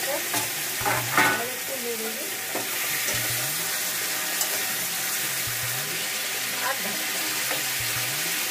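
Cauliflower florets frying in oil in a metal kadai with a steady sizzle, while a metal spatula stirs them with a few scrapes and knocks against the pan, the strongest about a second in.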